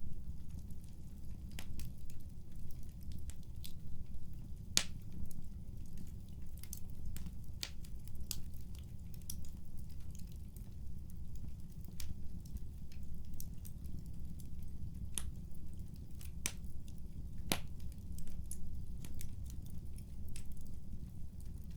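Fireplace crackling: irregular sharp pops and snaps, a few each second, over a low steady rumble.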